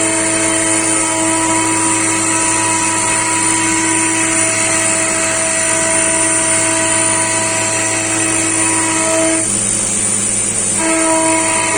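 High-speed milling machine cutting: a steady whine made of several pitches over a low hum. About three-quarters of the way through, the main pitches drop out for about a second, then come back.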